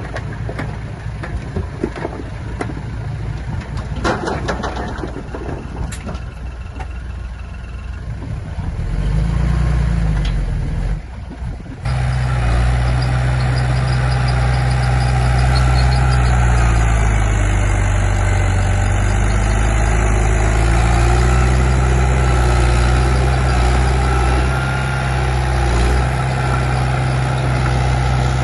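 Heavy diesel engine of earth-moving machinery running, loud and steady from about twelve seconds in, its pitch dipping and recovering briefly near the middle. Before that, a crackling noise with scattered knocks.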